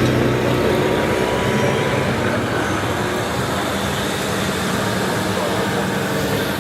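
Motor vehicle engines running steadily, with lines of engine pitch drifting slowly up and down over a constant rumble.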